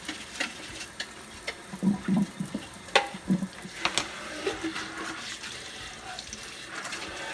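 Kitchen tap running into the sink while dishes are rinsed under it, with a few sharp clinks and knocks of the dishes.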